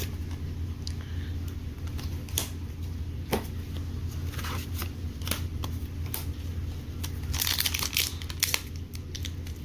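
Pokémon trading cards and a foil booster-pack wrapper being handled: light clicks and flicks of cards, with a denser burst of foil crinkling and tearing about seven to eight seconds in, over a steady low hum.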